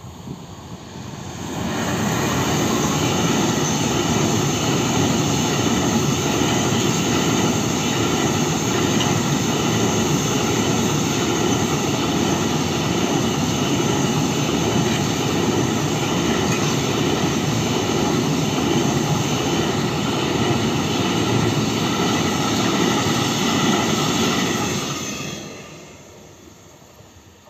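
Freight train passing at speed over a level crossing: a loud, steady rumble and rattle of wagon wheels on the rails that builds up within the first two seconds, holds, then fades away near the end as the last wagons clear.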